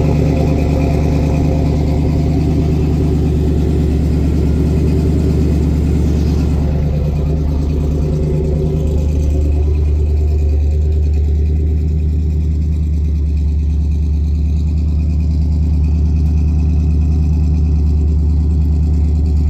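1971 Chevy C10 pickup's engine running steadily at idle just after a cold start in freezing weather. About halfway through, its higher tones drop away and it settles into a deeper, steadier note.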